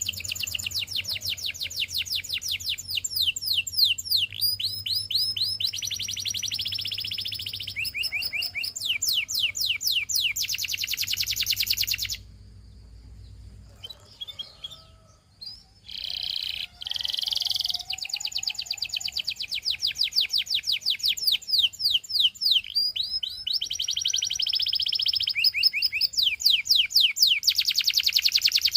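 Domestic canary singing: fast rolling trills and repeated chirping notes, with a pause of a few seconds just before the middle before the song starts again.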